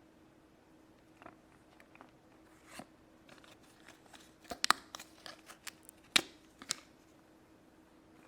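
Small toy packaging and pieces being handled by hand: scattered crinkles and light plastic clicks, the sharpest snaps about four and a half and six seconds in, over a faint steady hum.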